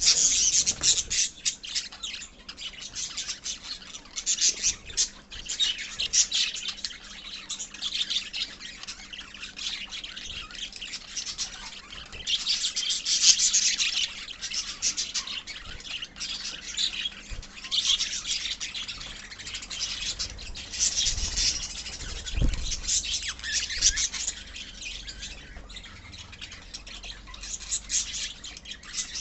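A colony of small parrots, lovebirds and budgies, chattering and squawking together. The dense, shrill chatter swells and fades in waves every few seconds.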